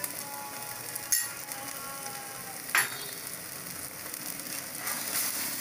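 Chicken in a thick masala gravy sizzling steadily in a non-stick kadai, with butter just added on top. Two brief clicks come about a second in and near three seconds in.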